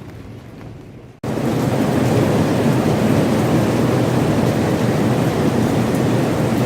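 Heavy rain falling in a steady, dense rush that cuts in suddenly about a second in, after a quieter stretch.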